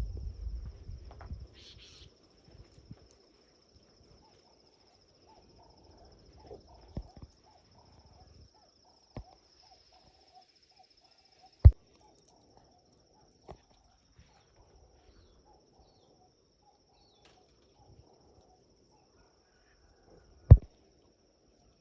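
Insects trilling steadily and high-pitched, with a few sharp clicks or knocks: the two loudest come about halfway through and near the end. A low rumble is heard in the first second or so.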